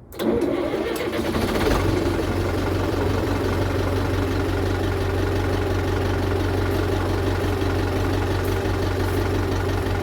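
Renault 69 tractor's MWM diesel engine cranking and catching almost at once, then settling into a steady idle.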